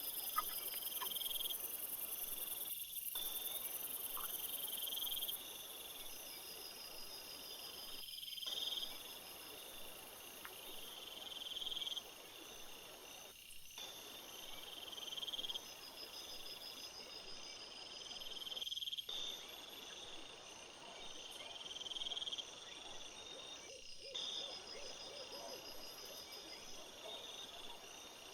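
A chorus of crickets and other insects chirping in steady, pulsing, high-pitched trills. The sound is cut by a short dropout about every five seconds.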